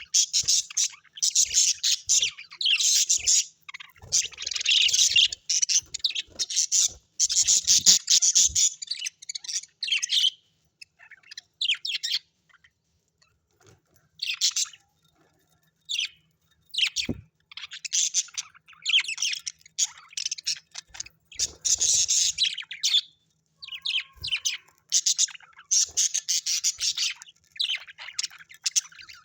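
Birds chirping and chattering in rapid bursts of one to two seconds, with a sparser stretch about a third of the way in.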